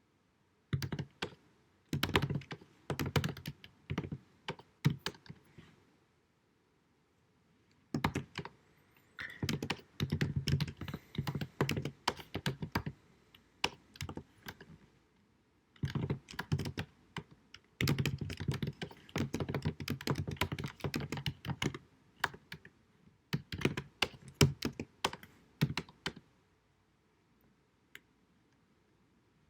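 Typing on a computer keyboard, recorded in low quality: quick runs of key clicks in four bursts with short pauses between them, stopping a few seconds before the end.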